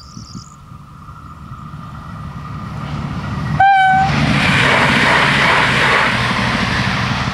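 ALn 501 'Minuetto' diesel multiple unit approaching and sounding one short horn blast about three and a half seconds in. It then runs loudly past the crossing, its noise building and then easing slightly near the end.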